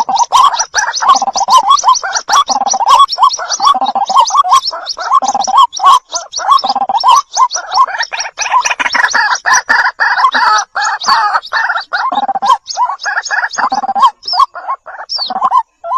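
White-breasted waterhen calling: a loud, fast, unbroken run of short repeated notes that breaks up into separate notes near the end.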